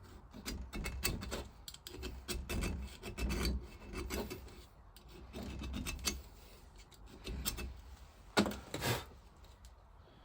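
Hand tool scraping and rasping at rust and metal inside a Lister engine vaporiser, in irregular short strokes with small clicks, with two louder scrapes about eight and a half seconds in.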